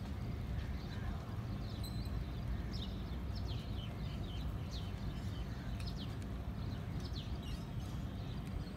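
Birds chirping: a flurry of short, high, quick downward chirps through the middle, over a steady low rumble.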